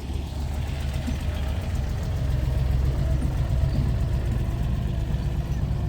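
A car engine running steadily at idle, as a low rumble that grows a little louder about two seconds in.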